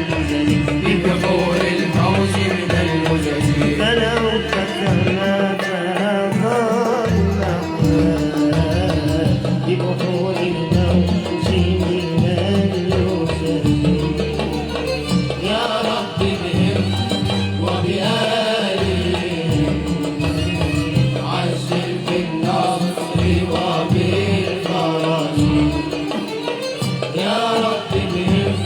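Malouf ensemble performing: a voice singing a wavering melody over hand drums and accompanying instruments.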